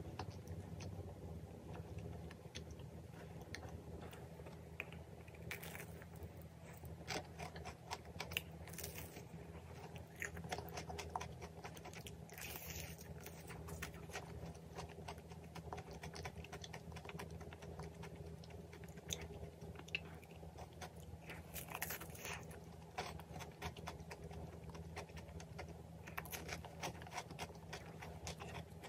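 Close-miked biting and chewing of a craquelin-topped cream puff, with many small crunches and crackles of the crumbly crust and soft mouth sounds. A low steady hum runs underneath.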